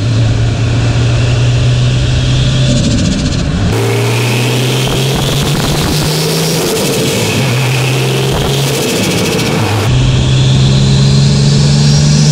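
Turbocharged RB26 straight-six of a Nissan Skyline R33 pulling under load: a steady engine drone with a Garrett turbo's whistle rising in pitch as it spools, once around the middle and again near the end. The sound changes abruptly about four and ten seconds in.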